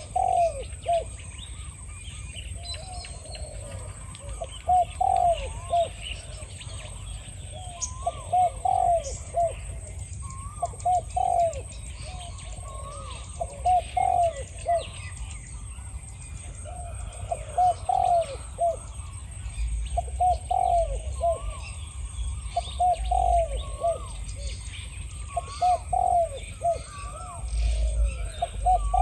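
Spotted doves cooing, a phrase every couple of seconds: the wild dove and the decoy calling to each other. Small birds chirp faintly and a steady high whine runs underneath.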